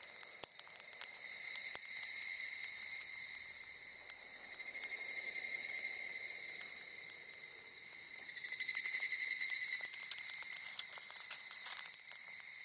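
Steady high-pitched insect song that swells and fades in slow waves, with scattered small crackles and pops from a wood campfire.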